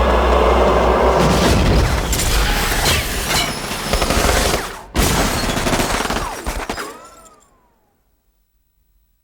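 Action-film soundtrack of heavy gunfire, booms and shattering. It breaks off for an instant just before the midpoint and resumes with a sudden loud hit. A falling tone sounds about three-quarters through as it all fades out to near silence.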